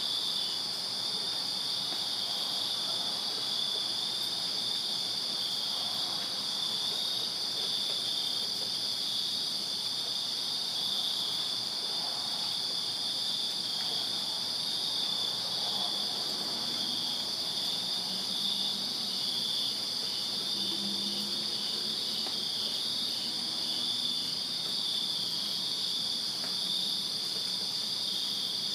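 Summer night chorus of crickets chirping in a continuous, steady drone, with a faster pulsing trill layered just below it.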